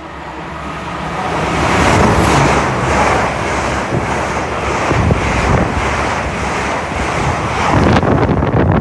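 LNER Azuma high-speed train passing at speed: a rushing of wheels on rail and air that builds over the first two seconds, then holds loud with a regular beat as the carriages go by.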